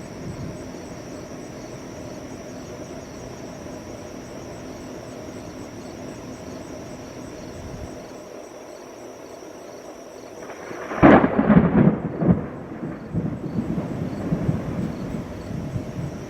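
Thunderstorm: a steady hiss, then about two-thirds of the way in a sudden sharp thunderclap that rolls on as a long rumble.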